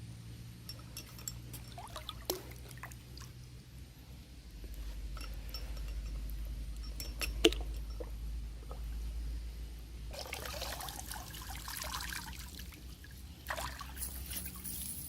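Water trickling and splashing, with scattered small knocks and one sharp click about seven seconds in. The splashing gets louder in two stretches near the end.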